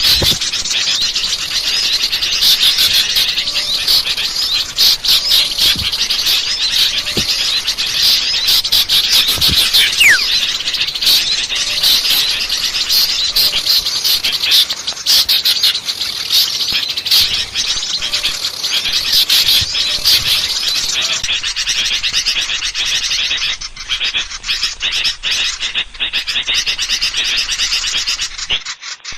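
A dense chorus of many small songbirds chattering and chirping rapidly without pause, a bird-luring recording meant to draw in small birds for trapping. A single falling whistle stands out about ten seconds in, and the chatter thins just before the end.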